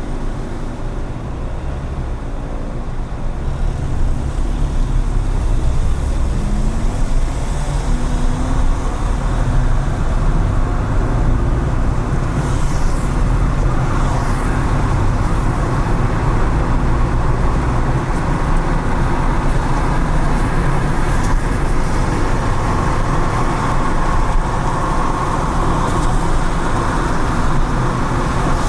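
Car driving on wet city streets: steady engine and tyre-on-road noise with surrounding traffic, growing louder about four seconds in.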